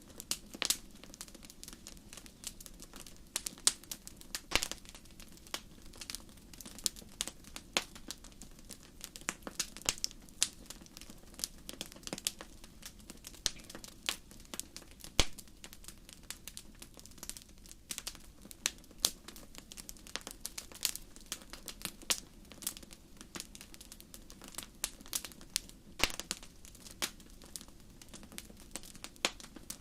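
Crackling wood fire: irregular sharp pops and snaps, several a second, over a faint steady low rush.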